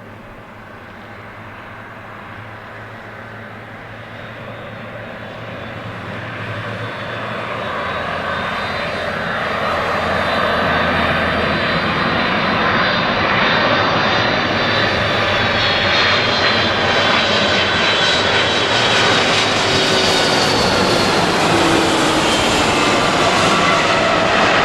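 Boeing 757 jet engines growing steadily louder as the airliner comes in to land, reaching full loudness about ten seconds in and holding. High whining tones from the engines glide slowly down in pitch over the rumble.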